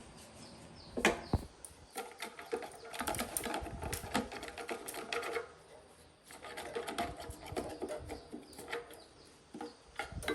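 Rapid, irregular clicking, tapping and clinking of small metal parts being worked by hand, in two stretches with a short pause between them, after a couple of sharper knocks about a second in.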